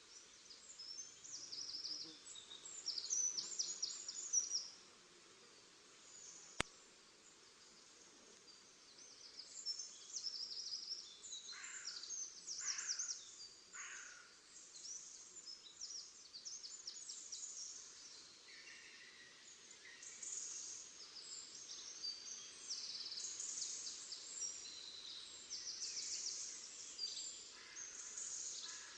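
Several small songbirds singing in rapid, high chirping phrases throughout, with a single sharp click about six and a half seconds in.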